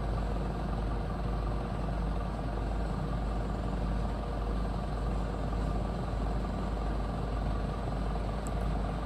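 A steady low engine hum with a deep rumble, unchanging throughout.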